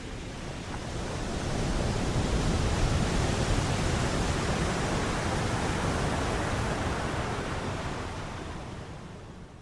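A long even rushing noise, like surf, swelling in over about two seconds, holding, then fading away near the end.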